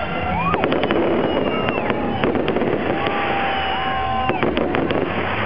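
Fireworks bursting overhead, with clusters of sharp crackling reports about half a second in and again near the end.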